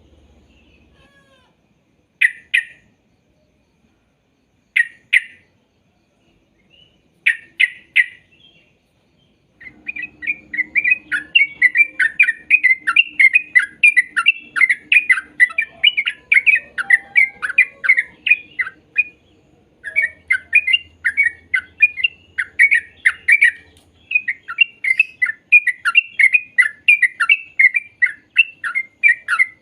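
Yellow-vented bulbul (trucuk) singing: a few short call bursts, then a long, fast, chattering run of bubbly notes with brief pauses.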